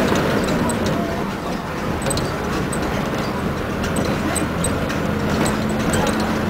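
Scania F94-HB bus running, a steady low engine hum with small irregular rattles and clicks over it.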